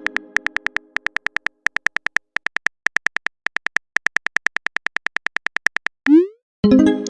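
TextingStory keyboard tap sounds: rapid short pitched beeping ticks, about six or seven a second, in runs with brief pauses, as a message is typed out. A chime chord is fading at the start, and near the end a rising swoop and a new chord mark the message being sent.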